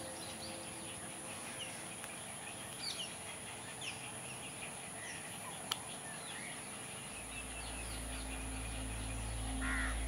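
Birds calling in the background: many short chirps scattered throughout, with a louder call near the end. Soft background music with a low drone comes in about seven seconds in.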